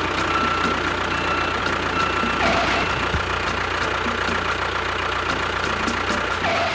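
A machine or motor running steadily, engine-like, with a constant whine over it. It cuts off suddenly at the end.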